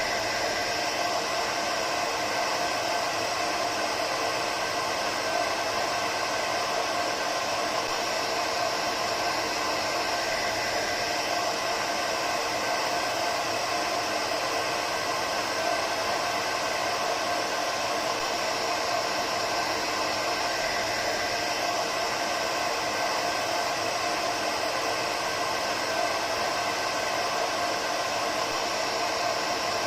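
Hair dryer running steadily: a constant airy rush with a faint motor hum, used as white noise to settle a baby to sleep.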